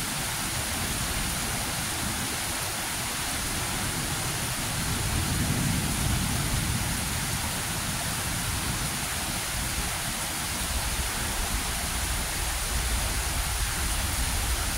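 Heavy rain falling steadily, with a low rumble swelling about five to seven seconds in and again near the end.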